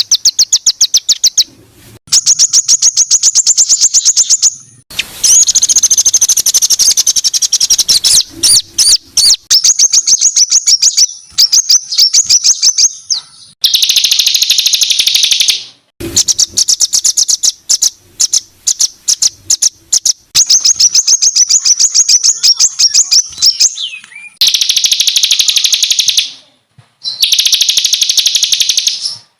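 Songbird singing harsh, very fast, high-pitched rattling trills of the 'tembakan kasar' (harsh shot) kind used as masteran to train songbirds. The phrases run several seconds each, separated by brief gaps and starting and stopping abruptly.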